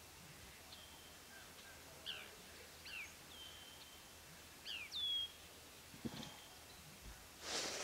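Small birds calling: short high chirps that slide downward, some running into a brief held whistle, spaced a second or so apart. A short hiss comes near the end.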